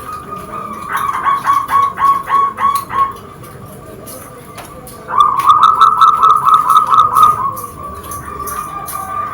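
Perkutut (zebra dove) cooing: a run of quick, evenly spaced staccato notes about a second in, then a louder, faster run about five seconds in, over a steady thin tone at about the same pitch.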